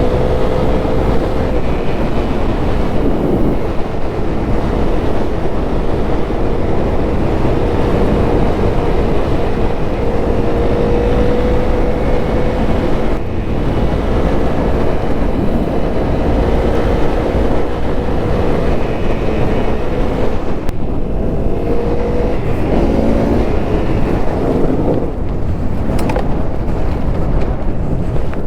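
Honda CRF250L single-cylinder four-stroke engine running under way at a fairly steady speed, its note rising and falling slightly, over a loud, steady rumble.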